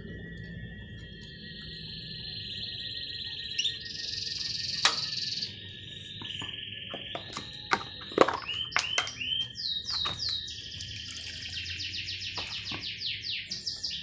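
Domestic canary singing a long varied song of high trills and rolls, with a fast run of repeated notes in the second half. A few sharp clicks stand out about five and eight seconds in.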